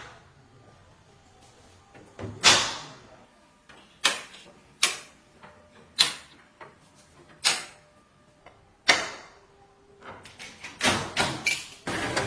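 A series of sharp knocks, roughly one a second at uneven intervals, with a quicker run of them near the end.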